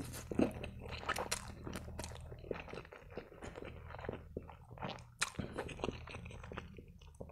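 A person chewing and slurping spaghetti, close-miked: a steady run of wet mouth clicks and smacks as the noodle strands are sucked in and chewed.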